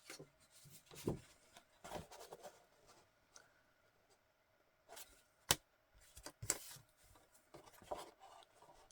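Paper and card being handled on a tabletop: scattered faint rustles and light taps, with one sharper tap about five and a half seconds in.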